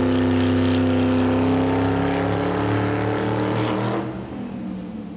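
A vehicle engine running steadily, its pitch creeping up slightly, then fading from about four seconds in and cutting off abruptly at the end.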